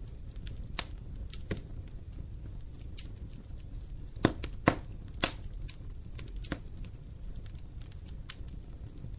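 Wood fire burning in a fireplace: irregular sharp crackles and pops over a low steady rumble of flames, with a cluster of louder pops near the middle.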